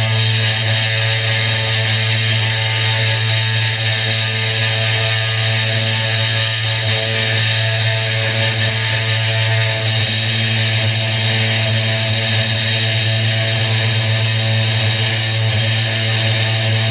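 Small CNC 3018 router's spindle motor running steadily while milling Finnpappe cardboard: a constant hum with a hiss of cutting, under background music.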